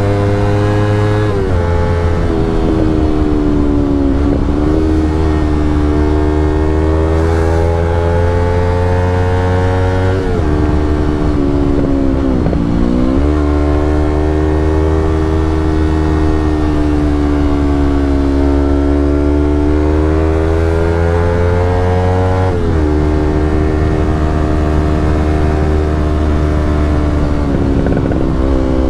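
Yamaha R25's 250 cc parallel-twin engine running through an aftermarket Brave exhaust, its note rising and falling slowly. The pitch drops suddenly four times, about 1, 10, 12 and 23 seconds in.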